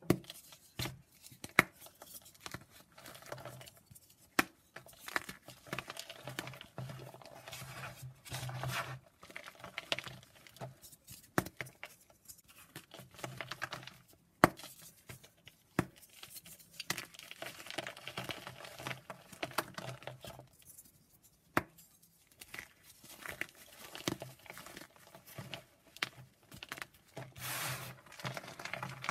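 Blocks of gym chalk being shaved and crumbled: dry crunching and scraping, broken by sharp snaps now and then.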